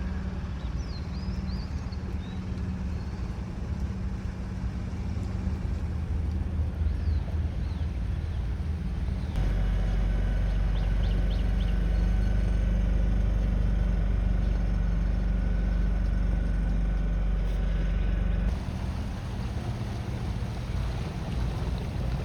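Boat engine running steadily with a low drone. A heavier low rumble comes in abruptly partway through and cuts off just as suddenly a few seconds before the end.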